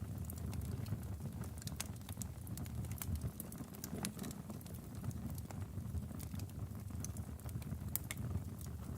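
Wood fire burning in a fireplace: a low steady rumble of flames with frequent sharp, irregular crackles and pops from the logs.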